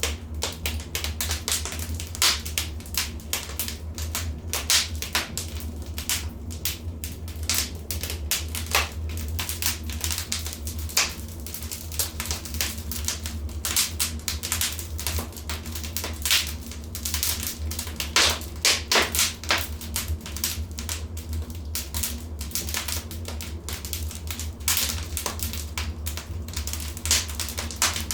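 Wood fire in a fireplace crackling, with dense, irregular sharp pops and snaps over a steady low rumble.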